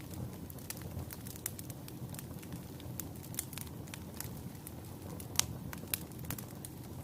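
Wood fire burning in a fireplace: a steady low rumble of flames with irregular sharp crackles and pops, the loudest pop about five and a half seconds in.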